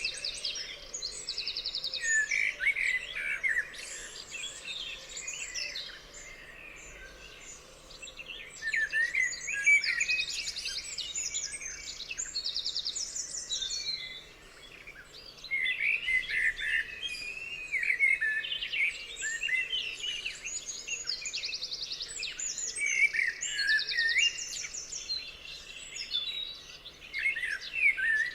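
Several songbirds singing together in a dawn-chorus-like mix of chirps, whistled phrases and short, rapid high trills, with a couple of brief lulls.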